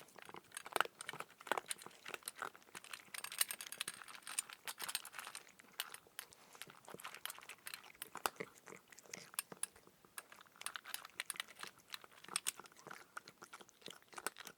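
Cat crunching and chewing dry kibble, a quick irregular run of small crisp cracks with the odd light clink.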